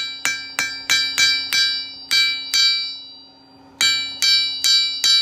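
Blacksmith's hammer striking steel on an anvil, about three blows a second, each blow leaving the anvil ringing; the hammering stops for about a second midway, then resumes with another run of blows.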